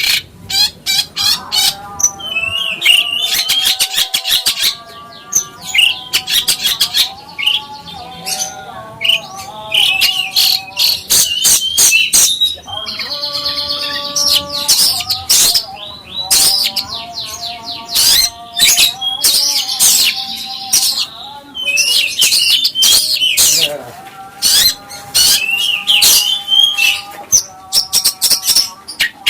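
A songbird singing in a loud, fast, varied stream of chirps, trills and rapid clicking rattles, broken by lower held whistled notes lasting about a second each.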